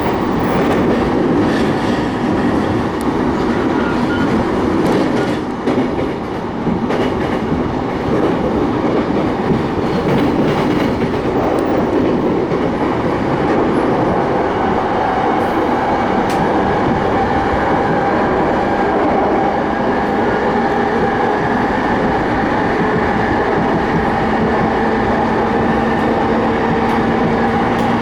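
Keiyo Line rapid train running on the track, heard from inside the carriage: a steady rumble of wheels on rail with scattered clicks in the first half. A steady hum comes up through the second half.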